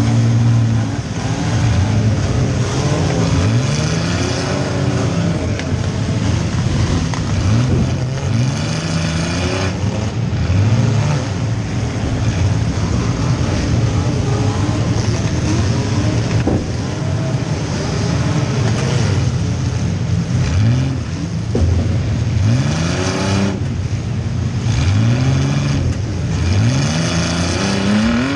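Compact demolition-derby car's engine heard from inside the cabin, revving up and down over and over as the car accelerates and backs between hits, with a few sharp knocks.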